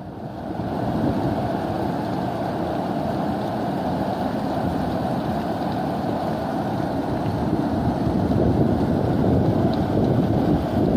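Steady rush of wind blowing across the microphone, a dense low rumble with no distinct events.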